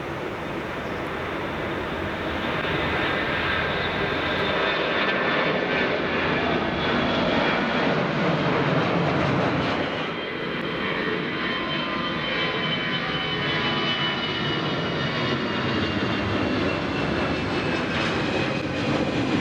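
Jet engines of an Airbus A321 airliner running at take-off thrust: a loud, steady noise with a high whine, building over the first few seconds. About halfway through, the sound changes abruptly to another Airbus A320-family jet, its engine noise carrying a slowly falling high whine.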